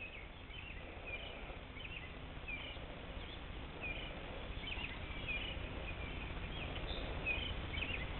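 Birds chirping, a short call about every half second, over a faint low rumble.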